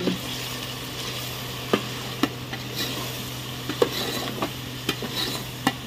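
Chicken and ground spices sizzling in hot oil in a metal pot while being stirred with a perforated metal spatula, as the chicken is browned in the masala. A steady sizzle runs throughout, with scattered sharp clinks and scrapes of the spatula against the pot.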